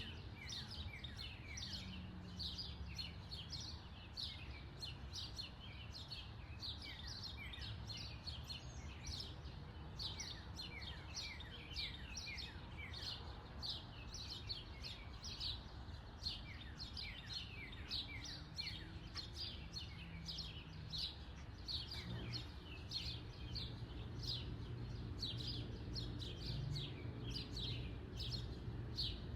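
Backyard birds chirping continuously, many short, quick downward-sweeping chirps overlapping, over a steady low background hum.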